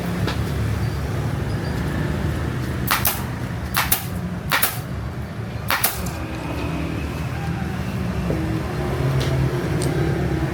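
Steady low rumble of traffic-like background noise, with four sharp clicks or taps between about three and six seconds in.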